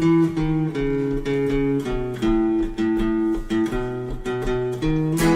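Instrumental intro of a folk-pop song: acoustic guitar strumming chords that change every second or so, with no singing yet.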